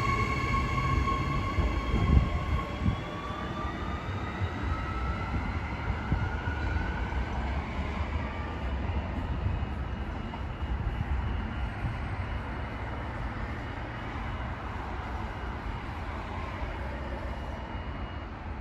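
A train pulling away: a whine that rises slowly in pitch over the first several seconds and then fades, over a low rumble of the train on the track that gradually dies away.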